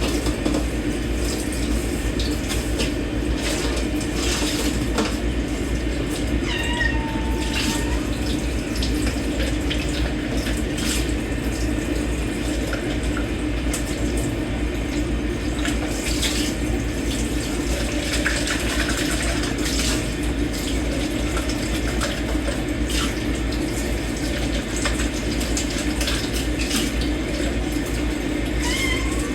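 Kitchen tap running into a sink while dishes and cutlery are hand-washed, with scattered clinks. A house cat meows about seven seconds in and again at the very end.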